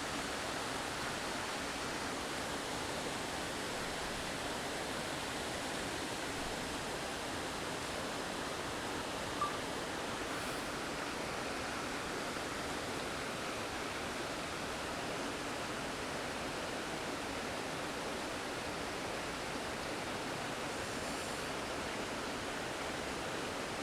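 Steady rush of a river's double waterfall, an even wash of water noise that does not change. One brief tick about nine seconds in.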